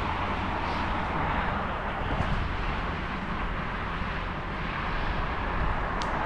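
Steady rushing noise of riding a bicycle: wind on the microphone over a low rumble of tyres and road. A single sharp click near the end.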